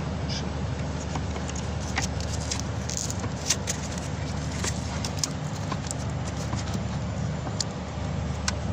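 Steady low mechanical hum, like an idling engine, with scattered light clicks and taps on top.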